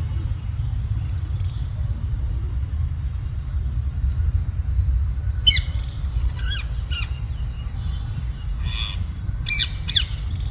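Parrots giving short, harsh squawks while play-fighting: one about a second in, a quick run of several from the middle on, and a few more near the end, each call sweeping down in pitch. A steady low rumble runs under them.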